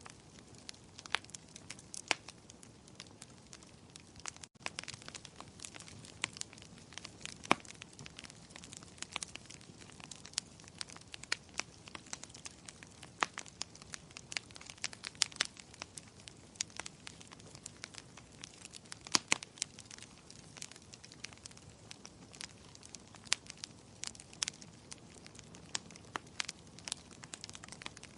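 Wood fire burning in a fireplace, crackling with frequent irregular sharp pops and snaps over a soft steady hiss. There is a momentary gap in the sound about four and a half seconds in.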